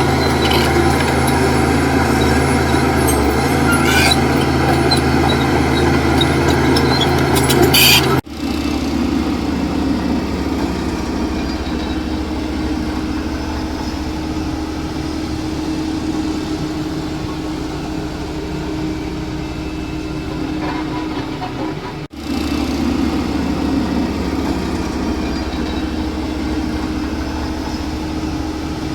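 Heavy diesel engine running steadily under load, with a few sharp metallic clanks in the first third. The sound breaks off abruptly twice and resumes with a slightly different engine note.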